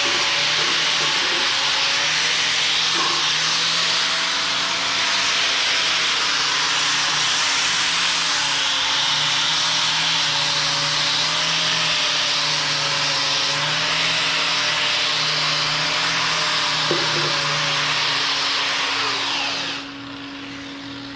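Angle grinder grinding steel, its motor pitch wavering under load, then switched off near the end and spinning down.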